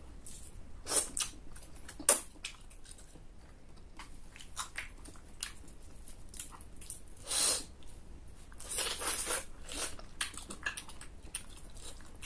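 Close-up mouth sounds of eating chicken adobo on the bone: chewing and biting with wet clicks and smacks, and a few louder bursts about a second in, two seconds in, and between seven and ten seconds in.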